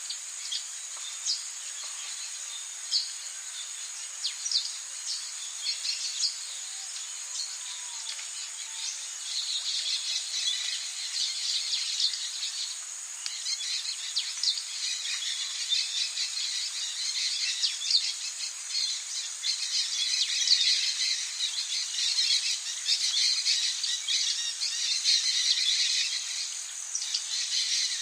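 Rainforest ambience: a steady high-pitched insect drone under many quick bird and insect chirps, which grow busier from about nine seconds in.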